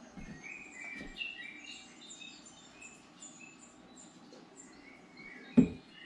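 Small birds chirping and twittering, many short high calls in quick succession. A single loud thump comes near the end.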